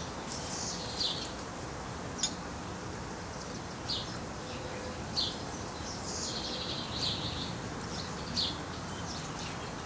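Wild birds chirping outdoors: short high calls about once a second, with a longer twittering run a little past the middle, over a steady background hum of ambient noise. A single sharp click about two seconds in.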